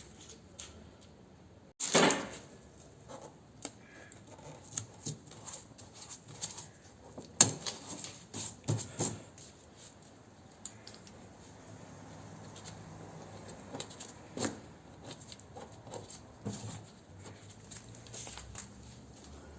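Irregular clicks, scrapes and knocks of hand work with tools and materials, with louder knocks about two seconds in and about seven seconds in.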